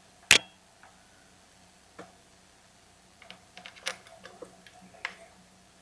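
A sharp click about a third of a second in, then a lighter click and a scatter of small ticks and clicks: metal chainsaw engine parts and hand tools being handled while the cylinder and its bolts are fitted. A faint steady hum runs underneath.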